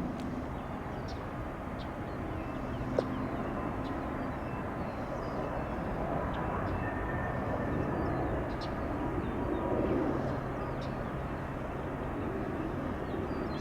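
Jet airliner engines at an airport: a steady, distant rumble and hiss that swells slightly about ten seconds in.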